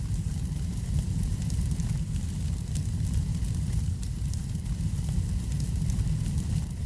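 Wood fire burning in a fireplace: a steady low rumble of the flames with faint, scattered crackles.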